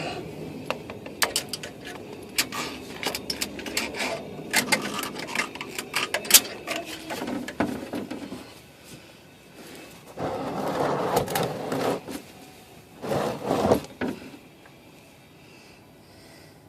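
Irregular sharp clicks and knocks of tools and parts being handled during an oil change, followed by two short bursts of scraping or rustling.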